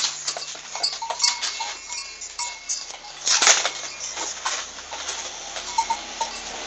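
A goat and a chicken scuffling: irregular knocks and clatter, loudest about three and a half seconds in.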